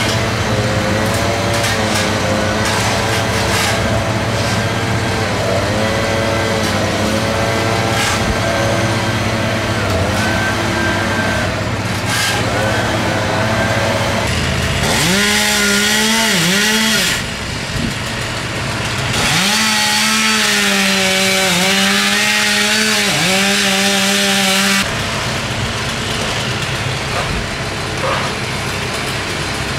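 A chainsaw run up to full speed twice, first for about two seconds and then for about five seconds, over a steady engine that runs throughout.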